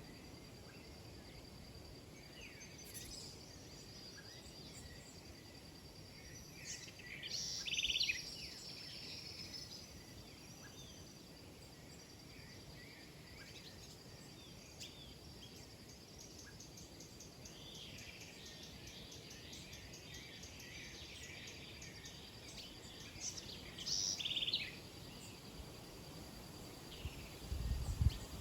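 Small birds chirping and twittering in short flurries, loudest about a quarter of the way in and again past the middle, over a faint steady high tone. A low thud comes near the end.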